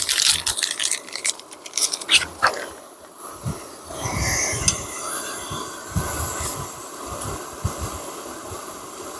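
Water pouring into a cooking pot for the first moment, then a few sharp clicks and knocks, then a portable camp stove burner hissing steadily from about four seconds in.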